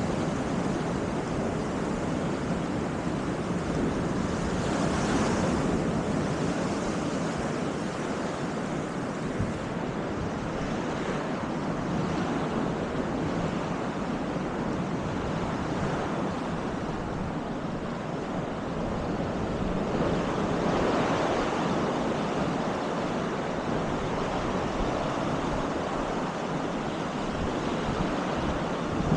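Baltic Sea surf washing onto the beach in a steady rush, swelling a little about five seconds in and again about twenty seconds in, with wind buffeting the microphone.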